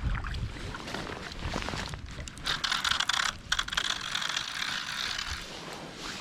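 Fishing reel clicking rapidly for about three seconds in the middle, with a brief break, over low wind noise.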